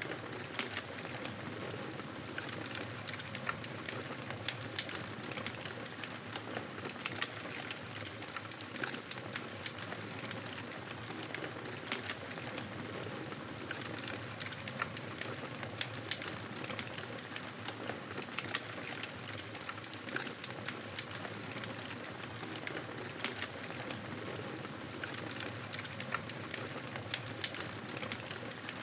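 Fireplace fire crackling steadily: a constant soft hiss with frequent small pops and snaps scattered irregularly throughout.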